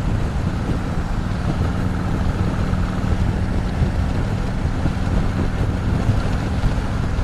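Harley-Davidson Road Glide's V-twin engine running steadily at cruising speed, with wind noise over the microphone.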